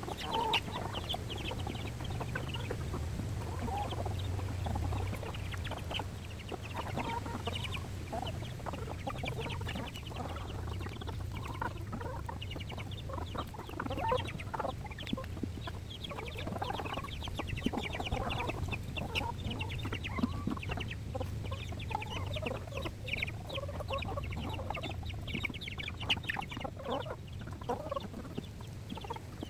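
A flock of backyard chickens clucking and calling continuously, a dense mix of short, overlapping calls, as they eat scraps. A steady low hum runs underneath.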